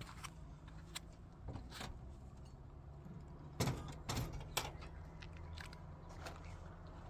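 Scattered small clicks and knocks over a low steady hum, with a few louder knocks a little past the middle.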